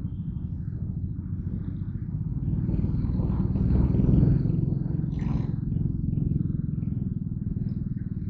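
Yamaha Crypton R motorcycle engine running under way, a fast low pulsing exhaust note that builds to a peak about four seconds in and then eases off.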